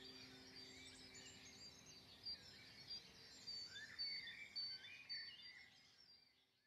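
Several songbirds chirping and whistling together, faint, fading out near the end.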